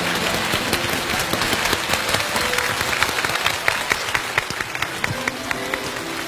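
Audience applauding, a dense patter of many hands, with soft music held underneath.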